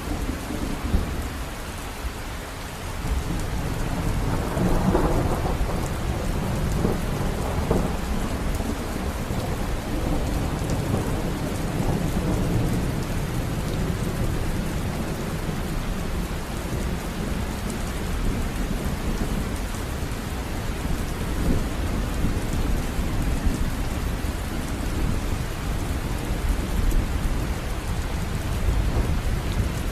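River water running: a steady rush with a deep, low rumble.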